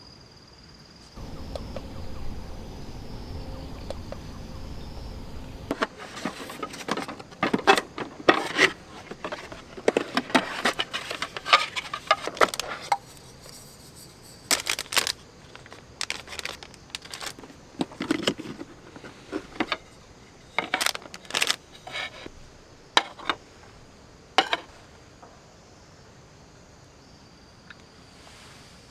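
A string of short, sharp clicks and clinks, like small hard objects being handled and set down, lasting about twenty seconds, after a low rumble of a few seconds. A faint steady insect hum runs underneath.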